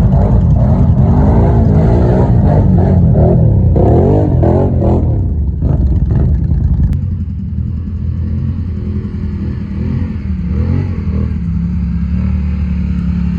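ATV engine revving hard, its pitch rising and falling repeatedly. About seven seconds in the sound changes abruptly to an engine running more steadily at lower revs.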